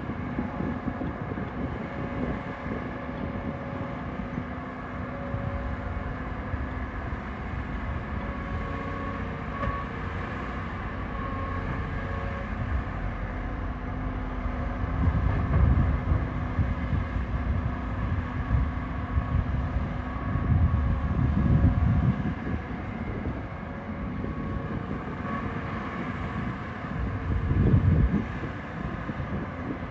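Heavy diesel earthmoving machinery running, a steady engine drone that three times swells into a louder low rumble.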